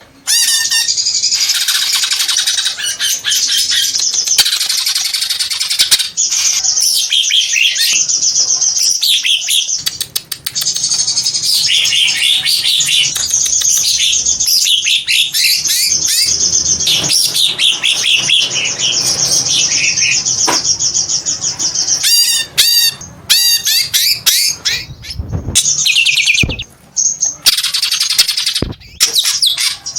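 Cucak ijo (green leafbird) singing a long, rapid, varied chattering song of fast chirps and trills, with brief breaks about a third of the way in and near the end. A little past two-thirds through it gives a quick run of repeated looping notes.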